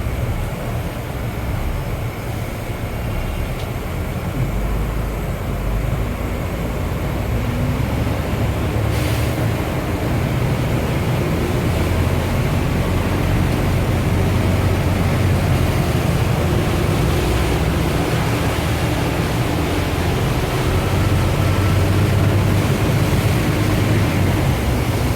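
Steady engine and road rumble of a moving motor vehicle, growing gradually louder.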